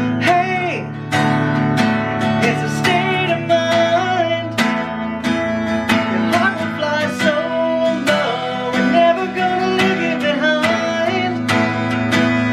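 A song: acoustic guitar strummed in a steady rhythm under a sung melody.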